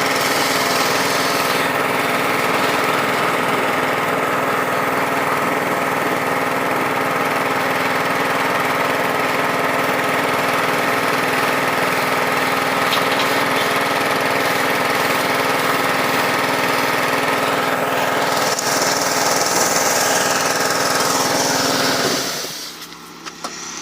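Pressure washer motor running steadily at a constant pitch, stopping abruptly near the end as the motorbike wash is finished.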